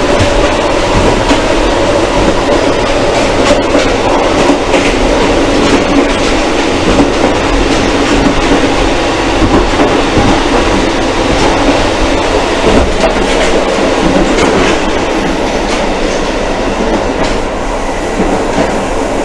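KiHa 185 series diesel railcar running along the line, heard from inside the car: a loud, steady running noise and engine drone with scattered clicks of the wheels over the rails.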